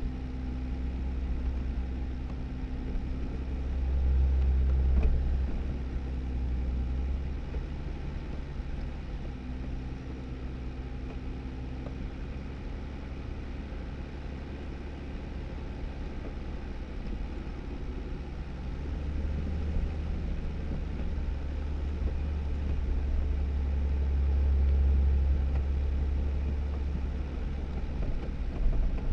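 A Jeep Wrangler driving on a snowy dirt road: a steady low rumble of engine and tyres, which grows louder briefly about four seconds in and again for several seconds from about twenty seconds in.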